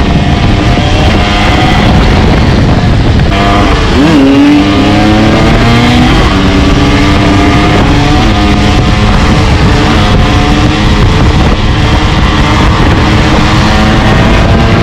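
125cc two-stroke dirt bike engine running loud and close. About four seconds in, its pitch drops briefly and then climbs back up.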